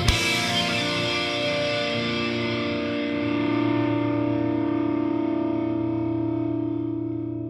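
Rock soundtrack music: a distorted electric guitar chord struck once and left ringing with echo, slowly fading out near the end.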